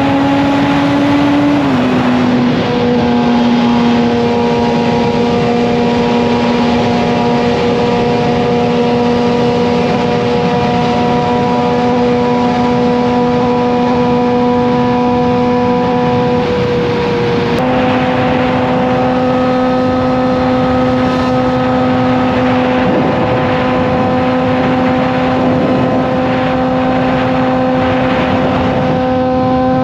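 Suzuki GSX-R750 inline-four with an M4 slip-on exhaust running at steady highway cruising revs, over wind rush. The engine note drops slightly about two seconds in, breaks off for about a second a little past halfway, then comes back a touch higher and climbs slowly.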